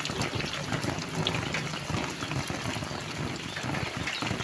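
Rain and running floodwater splashing: a steady watery hiss with many small splashes.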